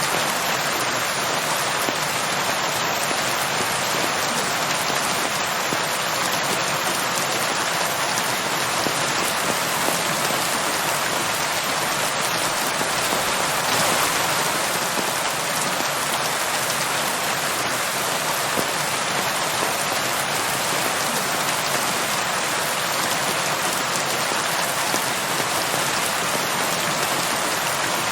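Steady rain falling, an even dense hiss of many drops.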